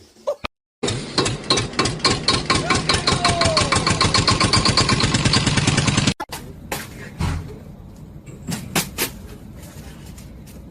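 A small motor pulsing rapidly and speeding up, like an engine being started and revved, then cutting off suddenly about six seconds in; a few quieter clicks and knocks follow.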